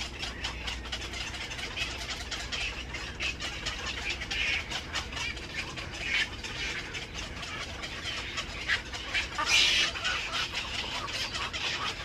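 Birds calling: short, harsh calls come every second or two, with a lot of clicking between them. The loudest call comes near the end.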